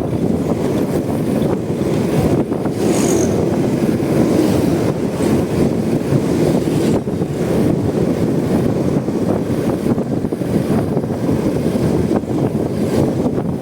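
Steady wind rush and road noise on the microphone of a moving motorcycle, with no distinct engine note standing out.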